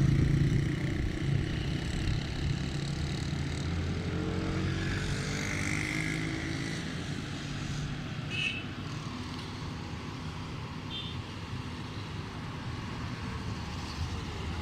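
Hino truck's diesel engine running as the truck drives, a steady low hum, with the engine pitch climbing for a couple of seconds about four seconds in.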